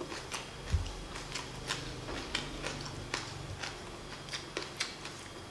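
Close-up mouth sounds of chewing raw green onion: crisp, wet crunching clicks at irregular intervals, the sharpest about three-quarters of a second in.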